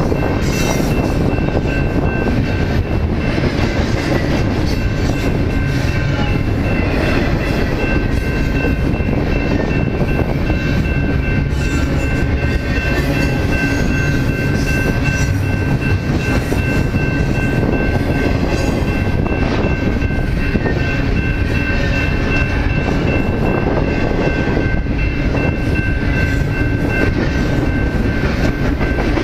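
Train running on the rails, a steady loud rumble and clatter with a high, even squeal held throughout.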